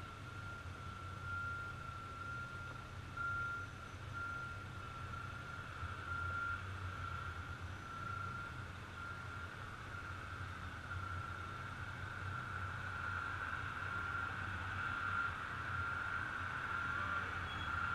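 A heavy truck's reversing alarm beeping in an even, repeating rhythm over the low rumble of its running engine, the beeps growing a little louder near the end.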